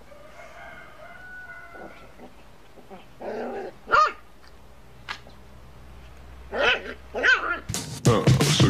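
A dog whining softly, then giving a few short, sharp barks. Loud music comes in near the end.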